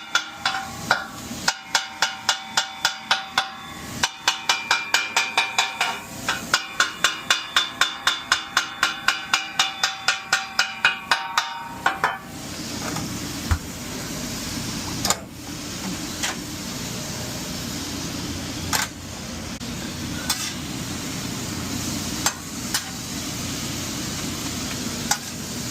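Metal spatulas chopping cheesesteak meat on a steel flat-top griddle: rapid, ringing clanks at about four a second for roughly the first half. Then the chopping stops and the meat sizzles steadily on the griddle, with an occasional sharp clank.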